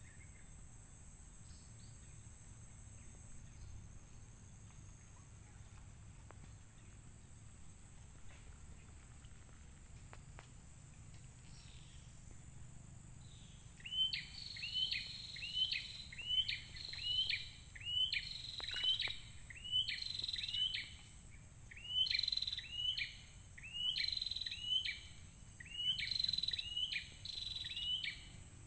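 A bird calling in a fast series of repeated short notes, each sliding downward, about two a second, starting about halfway through and running on. Under it, a steady high-pitched insect drone.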